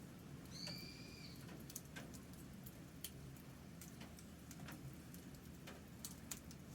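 Campfire burning with irregular crackles and sharp pops over a low steady rumble. A bird gives one short call about half a second in.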